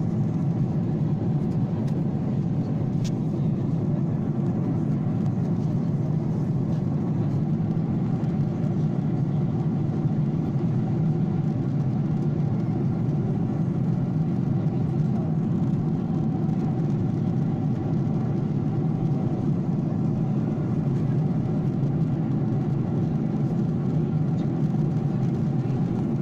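Steady airliner cabin noise in flight: the jet engines and airflow heard from inside the passenger cabin as an even, unchanging low rumble.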